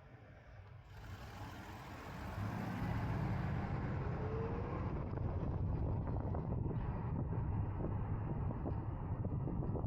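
Wind and road noise on a CSC Zongshen RX1e electric motorcycle as it pulls away and picks up speed. The rush starts about a second in, swells over the next couple of seconds, then holds steady and loud.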